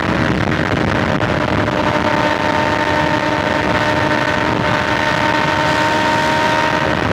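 BMW S1000XR's inline-four engine cruising at a steady highway speed, its even note holding constant over the rush of wind and road noise.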